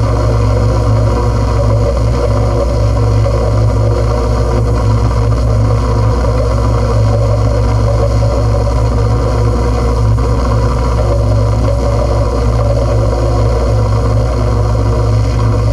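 Noise music track: a loud, unchanging drone with a heavy low hum under a dense layer of static-like noise.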